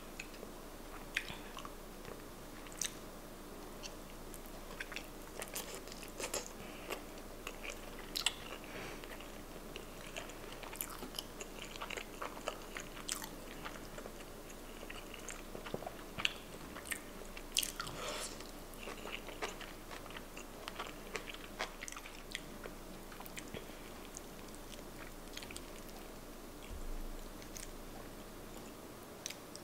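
Close-miked chewing of sushi, starting with a piece of salmon nigiri: soft, wet mouth clicks and smacks at irregular intervals.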